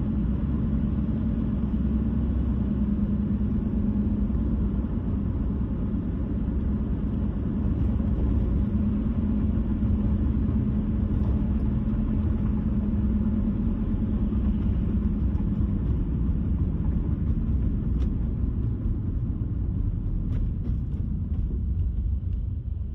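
Car driving at road speed: a steady low rumble of tyres and road noise with a drone underneath, easing slightly near the end.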